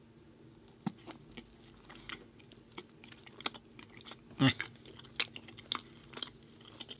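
Close-miked chewing as plant-based cream cheese is tasted: scattered soft crunches and wet mouth clicks, with one louder smack about four and a half seconds in.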